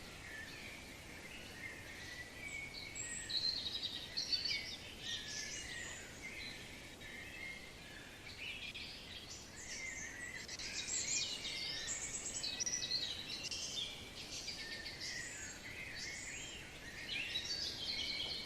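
Many small birds chirping and twittering at once, short quick calls overlapping throughout and busiest in the second half, over a faint steady hiss.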